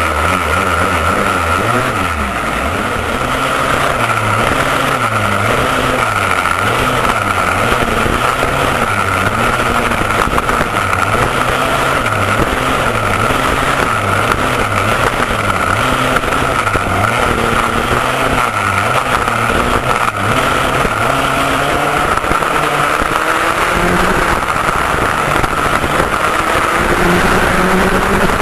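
McCulloch MC91 two-stroke kart engine with an expansion pipe, heard on board, revving hard and dropping back over and over as the kart accelerates and slows, its pitch rising and falling every couple of seconds.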